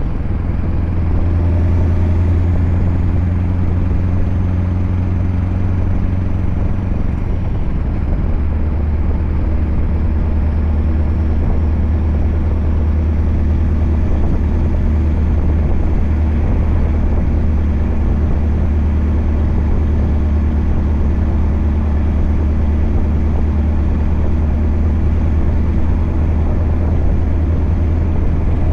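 Scania R580's 16-litre V8 diesel with an 8-inch straight-pipe exhaust running under way, a loud steady low drone whose pitch drops slightly about seven seconds in.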